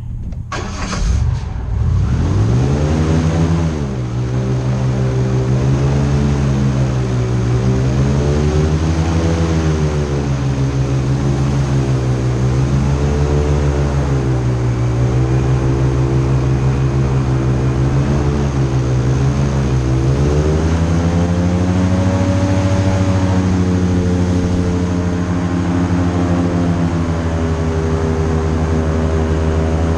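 Airboat's engine and air propeller throttling up about a second in, then running loud with its pitch swelling up and down in slow waves, settling steadier and a little higher for the last third.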